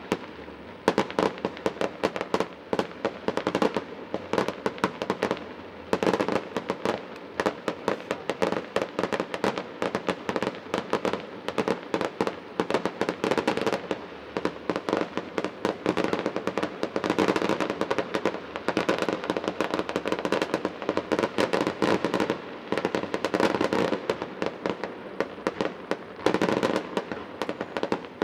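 Fireworks display: aerial shells bursting in a dense, unbroken run of rapid bangs and pops.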